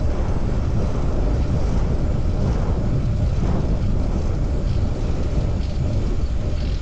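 Steady low wind rumble buffeting the microphone of a moving bicycle, mixed with road noise.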